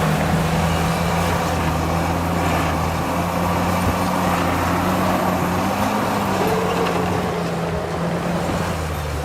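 Heavy diesel engine of construction machinery running steadily under load, its pitch dropping slightly right at the start and rising a little about six seconds in.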